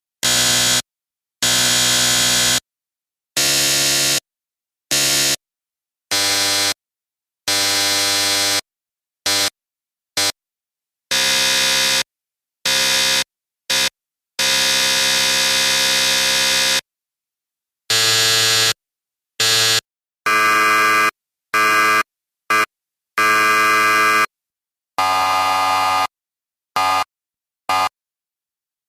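A sequence of buzzer sound effects: loud buzzes of different pitches and lengths, some short blips and some held for a second or two, the longest about two and a half seconds around the middle. Each one cuts off cleanly, with silence between.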